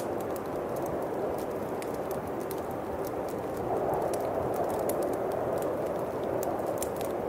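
Winter wind howling in a steady rush that swells a little about halfway through, over a bonfire's scattered sharp crackles and pops.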